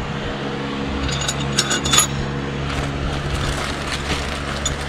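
Light metallic clinks and taps of parts being handled, bunched together about a second and a half in, over a steady low mechanical hum.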